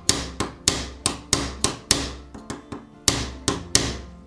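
Small hammer tapping lightly and repeatedly on the ceramic insert of a fishing rod guide ring resting on pliers, about a dozen sharp, ringing metal-on-ceramic taps at an uneven pace. The blows are cracking the damaged insert so it can be knocked out of its metal frame.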